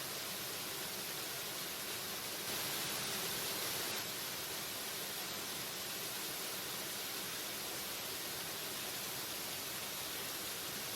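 Waterfall: a steady rush of falling water, a little louder for a second or so about two and a half seconds in.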